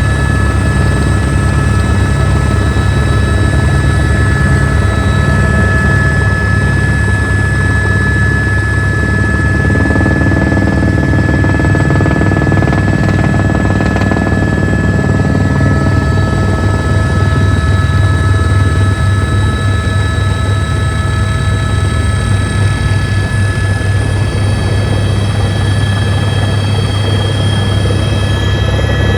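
Helicopter in flight: a steady, loud rotor beat with a constant turbine whine over it.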